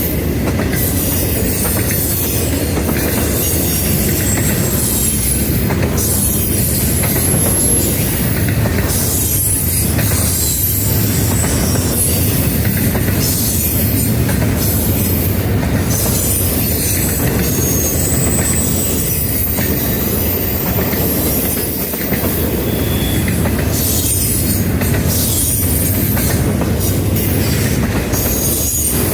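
Norfolk Southern freight train's cars rolling past, a steady loud rumble of steel wheels on rail with brief high-pitched wheel squeals here and there.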